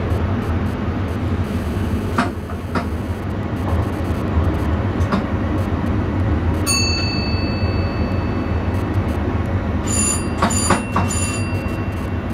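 Passenger train running steadily, heard from the driver's cab as a constant low rumble. A couple of sharp clicks come about two seconds in, and brief high-pitched squeals come around the middle and again near the end.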